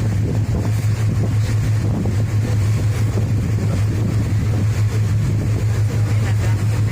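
Boat engine running steadily, a constant low hum under a rushing noise.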